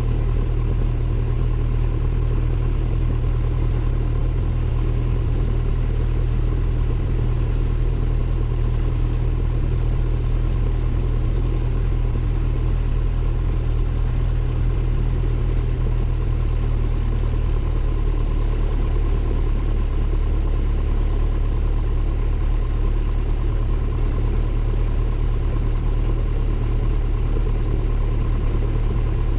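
Cessna 172N's four-cylinder Lycoming O-320 engine and propeller running steadily, heard from inside the cockpit as a constant low drone.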